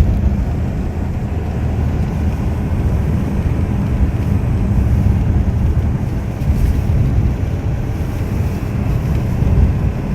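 A car driving, heard from inside the cabin: a steady low rumble of road and engine noise with some wind noise.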